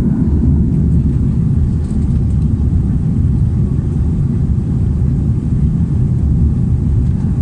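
Steady low rumble of an Airbus A330-300 heard from inside the passenger cabin: engine and airflow noise, even throughout.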